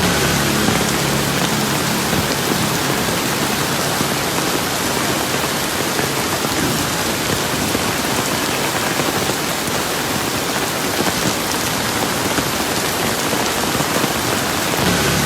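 Steady rain falling, a dense even hiss of drops on surfaces. A faint low hum sits under it in the first few seconds and again near the end.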